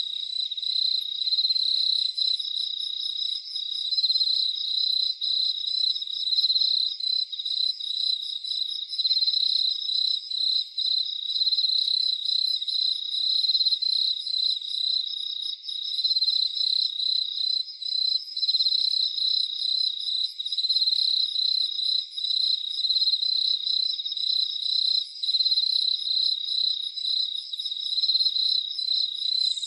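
Chorus of crickets chirping steadily at night, a dense pulsing trill with fainter, higher rapid chirps over it.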